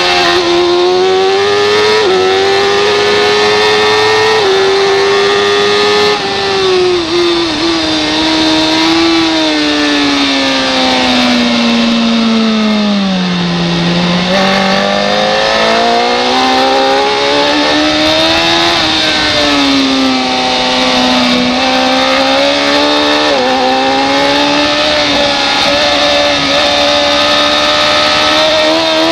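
Race motorcycle engine at high revs over a steady rush of wind. Its pitch climbs in short steps through quick upshifts, falls steadily for several seconds around the middle as it slows and gears down, then climbs again.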